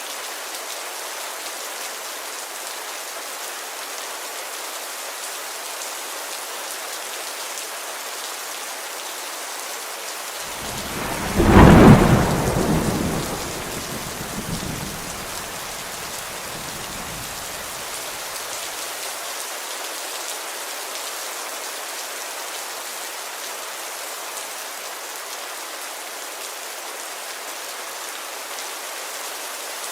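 Steady heavy rain falling on a window, with a single loud thunderclap about a third of the way in that rumbles away over several seconds.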